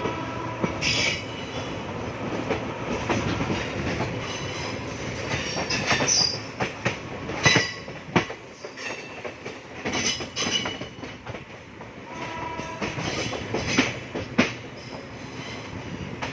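Passenger train running along the track: a steady rumble with irregular sharp clatter and knocks from the wheels over the rails, and now and then a brief high screech of the wheels.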